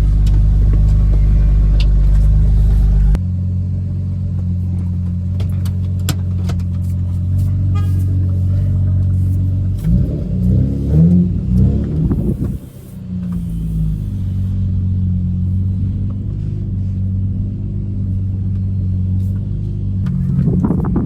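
Straight-piped Honda Accord V6 exhaust running warm-up shortly after a cold start: a steady deep drone, with a heavier low rumble that drops away about three seconds in. Around the middle the revs rise and fall with a brief dip, and they climb again near the end.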